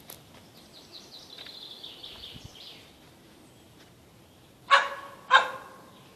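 Small dog barking twice, two sharp, high barks about half a second apart near the end. Fainter bird twittering comes before them.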